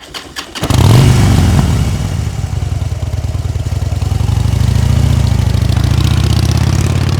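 Motorcycle engine starting with a few clicks, then catching about a second in and running steadily at idle.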